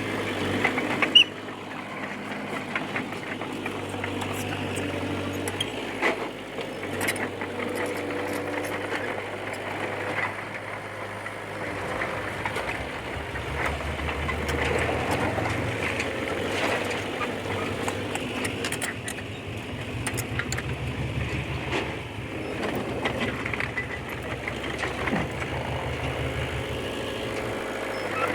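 D20P bulldozer's diesel engine running at work, with sharp metallic clicks and clanks from the machine; a loud clank comes about a second in. The engine settles into a heavier, low pulsing from about twelve seconds in.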